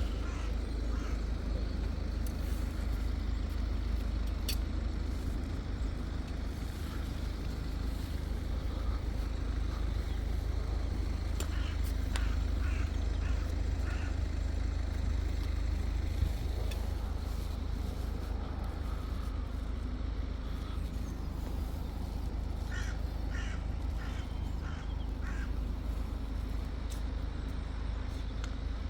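A crow cawing several times, a short run about twelve seconds in and another of about five caws in the last quarter, over a steady low rumble.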